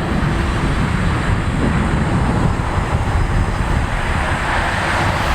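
Jet engines of a Boeing 787-9 airliner at takeoff power: a steady, loud rush of noise that grows slightly brighter towards the end.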